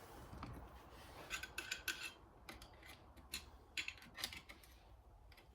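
Clutch plates of a Suzuki LTR 450 engine clinking and scraping against each other as they are handled and slid out, a quick run of light metallic clicks, some with a short ring.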